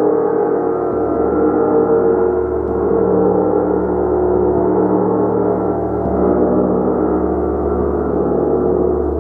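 Gong played continuously: a sustained, dense wash of many overlapping ringing tones that swells gently, with no single strike standing out.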